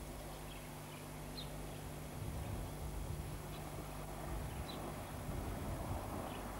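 Small birds chirping faintly now and then over a steady low hum and outdoor background noise; a rushing noise builds up through the second half.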